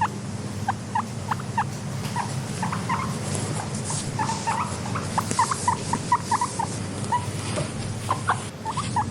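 Guinea pigs squeaking in many short, rising calls, several a second and in quick clusters, over a steady low hum.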